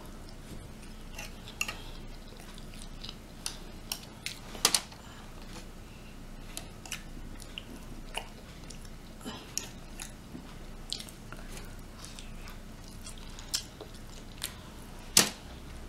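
Close-up chewing and biting of rotisserie chicken meat: wet mouth clicks and smacks at irregular intervals, with a sharper one a little under five seconds in and another near the end.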